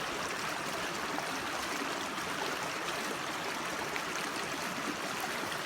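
Small creek running full, its water flowing and splashing with a steady rushing.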